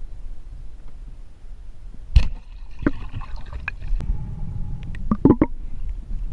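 Water sloshing and gurgling around the camera, over a steady low rumble. There are sharp knocks about two seconds in and near three seconds, and a quick cluster just after five seconds.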